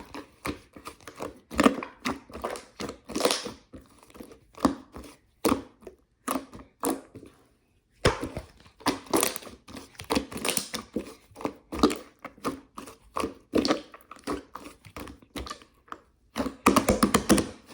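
Slime being squeezed and poked by hand, giving wet clicks and small pops in irregular bursts, with a quick run of crackling clicks near the end.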